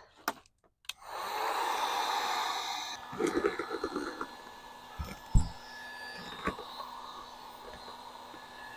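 A hot-air blower like a hair dryer switches on about a second in and runs steadily, loudest for the first couple of seconds and then lower. It is heating vinyl car wrap to soften it for peeling. A few knocks and one sharp thump come midway.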